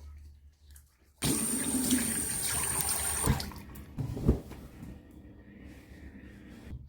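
Water rushing, starting suddenly about a second in and running loudly for about two seconds, then carrying on more quietly, with a knock partway through.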